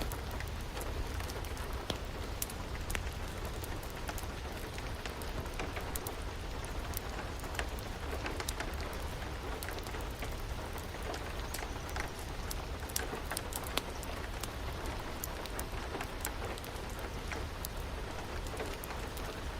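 Steady rain falling, with scattered sharp crackles of a wood fire throughout.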